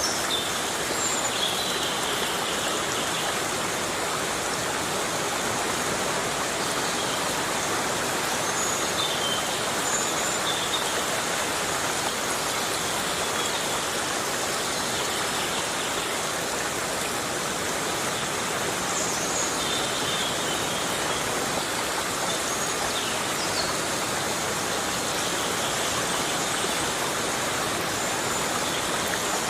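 Heavy rain falling steadily on a tropical forest, an even hiss. Faint, short high chirps come through it now and then.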